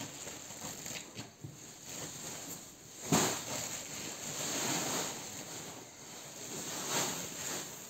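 Salt being scattered over stone-wool floor insulation: a rushing, grainy hiss that swells about three times.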